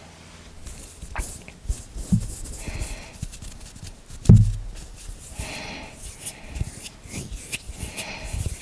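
Hand and finger sounds close to the microphone: hissy rubbing swishes and sharp little clicks and taps, with one louder, deeper thump about four seconds in.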